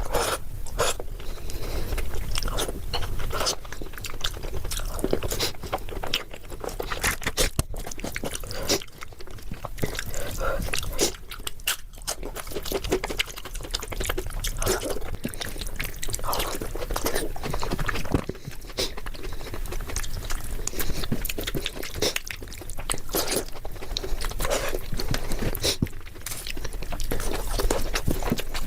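Close-miked chewing and wet mouth sounds of someone eating khichdi with ghee: a steady run of irregular smacks and small clicks.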